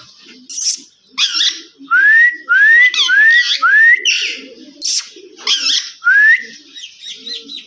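Indian ringneck parrot calling: a run of short rising whistled notes, four in quick succession and one more a little later, mixed with harsher shrill chirps.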